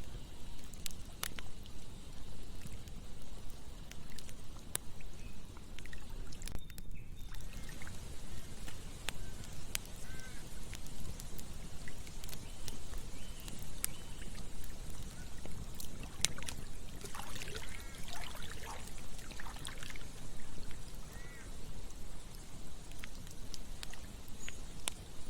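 Campfire crackling, with sharp pops scattered through, over the steady rush of a flowing river. A few short chirping calls come in about two-thirds of the way through.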